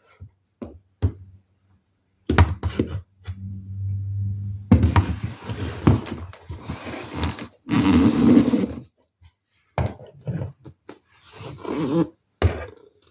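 Rustling and clattering from handling plastic LEGO parts and packaging, in short irregular bursts with sharp clicks, and a steady low hum at times between them.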